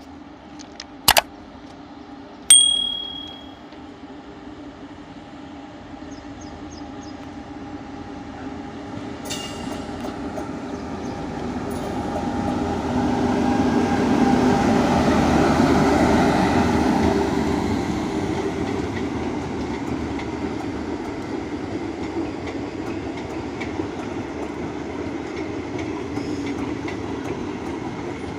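Train running past on the track, its rumble building to a peak about halfway through and then settling to a steady rolling sound with faint clatter of wheels over the rails as the coaches go by. A few sharp clicks sound in the first few seconds.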